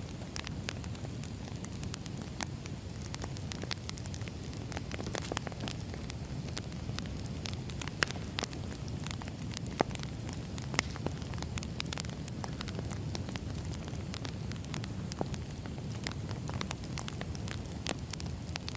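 Crackling wood fire: a steady low rumble with irregular snaps and pops throughout, a few sharper, louder pops near the middle.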